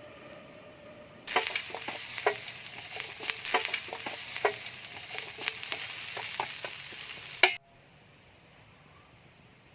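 Mushrooms sizzling as they are stir-fried in a pan, with a utensil clicking and scraping against it. The sizzle comes in suddenly about a second in and cuts off abruptly near the end.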